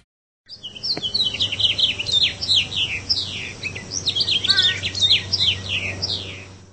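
Songbirds chirping and singing: many quick, overlapping whistled notes that slide downward in pitch, starting about half a second in and cutting off abruptly at the end.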